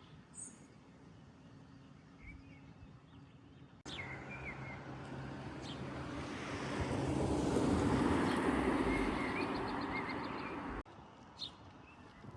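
Small birds chirping in outdoor ambience, in short separate calls. In the middle a rushing noise swells up, peaks and fades again before the sound cuts back to quieter birdsong.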